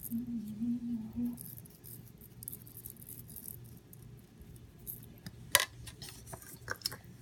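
Light handling noises at a table: soft rustling, then one sharp click about five and a half seconds in and a few smaller clicks after it.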